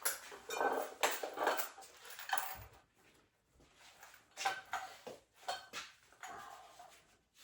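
Metal weight-room gear clanking and clinking as a 45-pound plate is handled for weighted pull-ups, with ringing after the knocks. The clanks come in two irregular clusters, one in the first couple of seconds and another in the second half, with a quieter stretch between.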